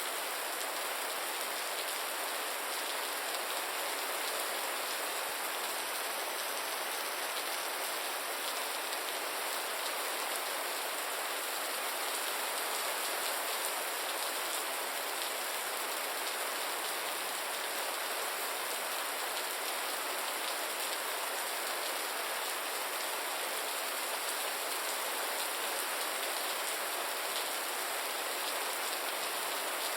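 Steady rain falling, an even hiss with fine, dense drop patter throughout.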